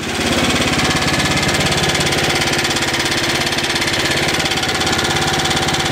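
5 HP Tecumseh single-cylinder small engine running steadily with a rapid, even pulsing beat. It has a knock that the owner suspects is rod knock from the crankcase, though he is not sure.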